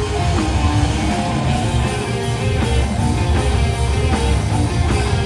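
Rock music with electric guitar over a steady bass-and-drum beat.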